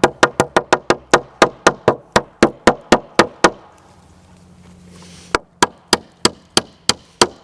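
Hammer driving nails into a wooden fence board: two runs of quick, even blows, about three or four a second, with a pause of about two seconds between them.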